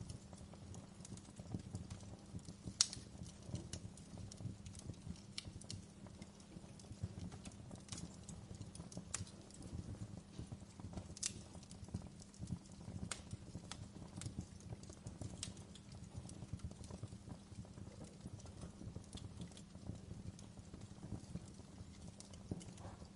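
Fireplace fire crackling: a steady low rumble with scattered, irregular sharp pops and snaps, the loudest pop about three seconds in.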